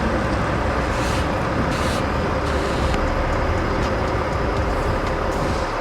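Steady motor vehicle engine noise with a low rumble and a faint steady hum.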